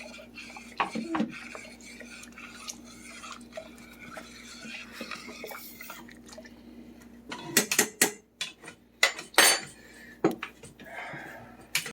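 A metal spoon stirring soup in a cooking pot, scraping and clinking against the pot. A few louder clanks come in the second half.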